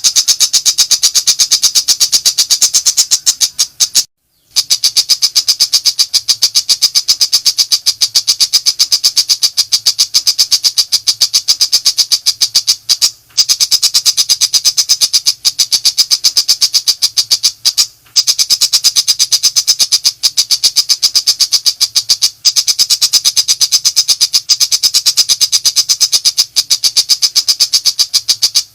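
Shrike of the 'pentet macan' type calling in a loud, rapid-fire string of sharp, high notes, many per second, broken by a few brief pauses: the 'nembak' rapid-fire call used as a tutoring track for songbirds.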